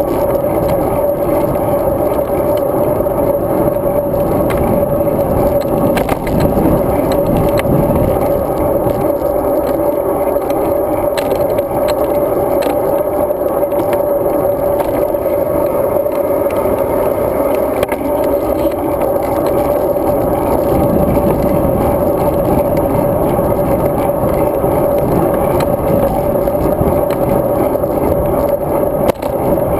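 Riding noise of a road bicycle picked up by a GoPro Hero 2 riding along with it: a steady, muffled rush of wind and rolling rumble with a constant hum, broken by a few short rattles.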